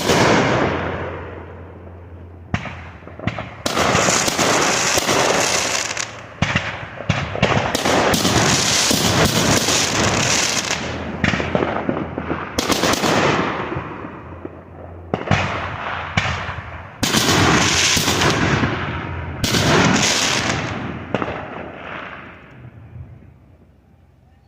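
A fireworks barrage: a rapid, irregular string of bangs and pops with long stretches of crackle and hiss, dying away near the end.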